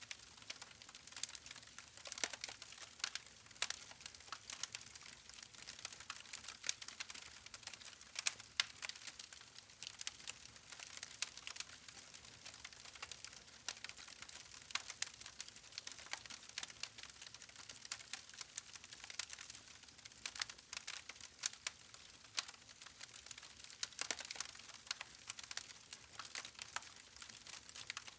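Wood fire burning, with a steady hiss and frequent irregular crackles and pops from the logs.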